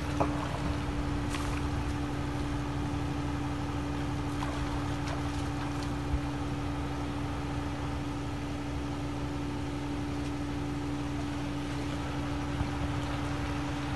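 An engine running steadily at constant speed, a held hum with no revving, with a couple of short knocks, one near the start and one about six seconds in.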